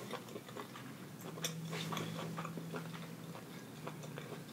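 Close-miked chewing of a mouthful of hibachi food: soft, scattered wet clicks and smacks. A faint low hum runs for about two seconds from just after a second in.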